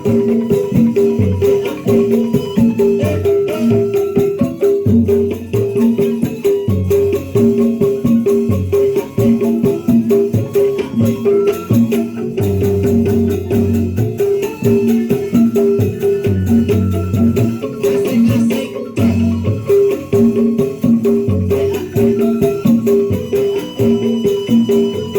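Music on tuned mallet percussion: a fast, steady stream of strikes on a few repeated pitches, with deep low notes underneath.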